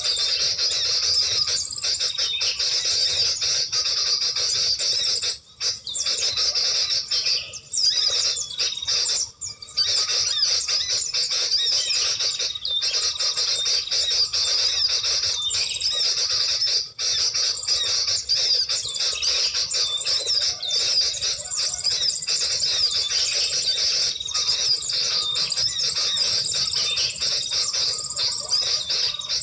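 Small songbirds chirping and calling without pause, a dense high-pitched chatter, broken by a few brief gaps in the first ten seconds.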